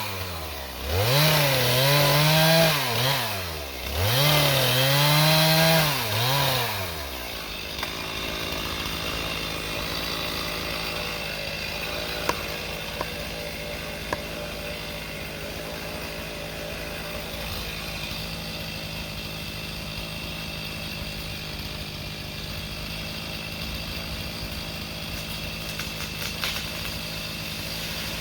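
Two-stroke chainsaw revving up, holding high and dropping back twice in the first seven seconds, then running steadily at a lower, even pitch.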